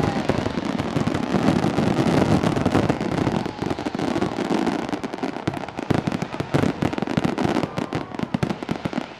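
Fireworks exploding all at once in a dense, continuous barrage of booms and crackles, loudest at the start and thinning into separate bangs toward the end: a whole display's shells set off together by a malfunction instead of over a long show.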